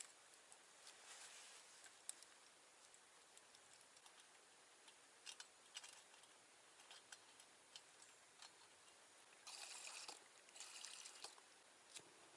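Near silence with scattered faint clicks and ticks, and two brief rustles close together near the end.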